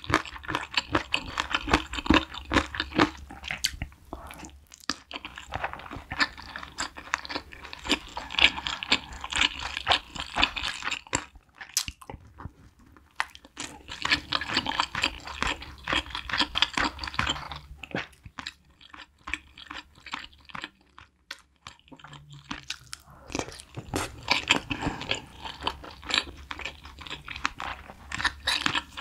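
Close-miked chewing and crunching of chicken drumstick cartilage, in bunches of crisp crunches with a few quieter pauses between them.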